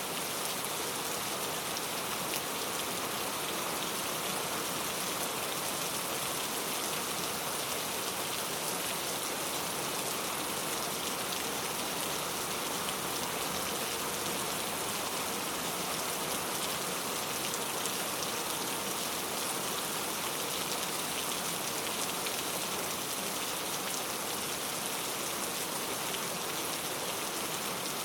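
Steady rain falling on a surface, a dense even patter of many small drops with no let-up.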